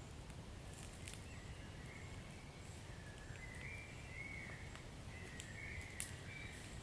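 Wood fire burning in a fireplace: a steady low rumble with scattered crackles and sharp pops, the loudest pop about six seconds in. A faint, wavering high whistle rises and falls throughout.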